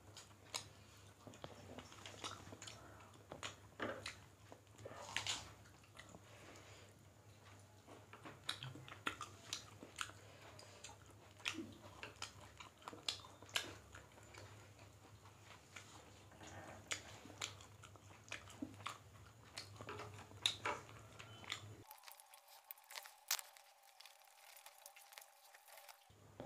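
Faint chewing and mouth sounds of people eating rice and chicken curry by hand, with many short, scattered clicks and smacks over a faint steady low hum.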